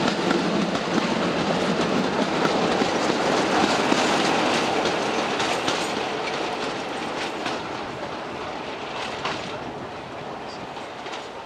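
A diesel-hauled passenger train passing close by and running away. The coach wheels clatter over the rail joints with a steady rumble, and the sound fades gradually over the second half as the trailing Class 33 diesel locomotive recedes.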